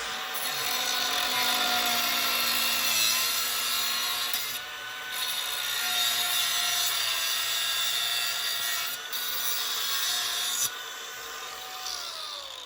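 Ridgid grinder running under load against metal, its motor whine sagging and recovering in pitch, with a bright grinding hiss and two brief eases. Near the end it is let off and winds down with a falling whine.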